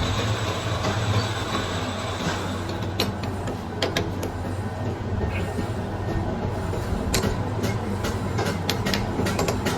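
Workshop machinery running with a steady low hum. From about three seconds in come many irregular sharp metallic clicks and knocks.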